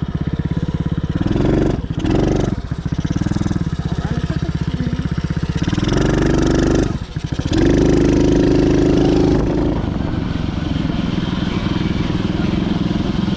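Dirt bike engine running under throttle, the revs rising and falling several times, with a brief dip in the middle, a loud high-rev stretch just after it, then steadier running near the end.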